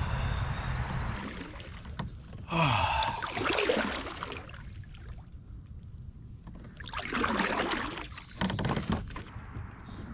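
Kayak paddle strokes splashing in the water, a few surges several seconds apart.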